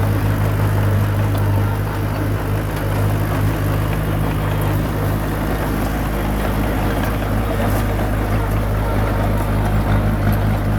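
Small bulldozer's diesel engine running steadily under load, a deep even hum with a few faint clicks over it.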